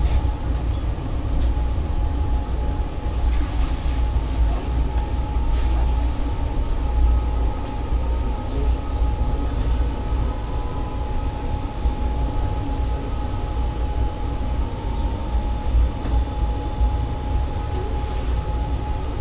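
Interior of an ŁKA 36WEd (Newag Impuls) electric multiple unit under way: a steady low rumble of the wheels on the track, with a constant high hum over it and a few light clicks in the first several seconds.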